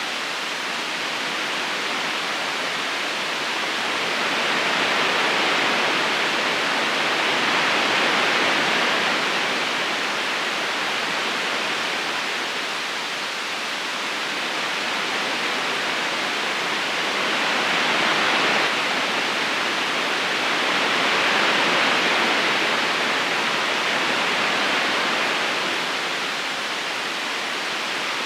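River current rushing steadily over stones: an even watery hiss that slowly swells and eases every several seconds.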